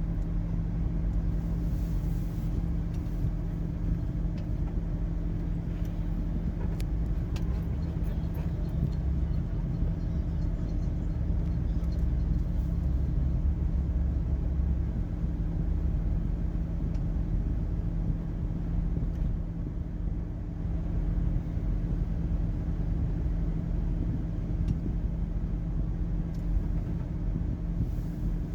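A car's steady low rumble and hum, heard from inside the cabin.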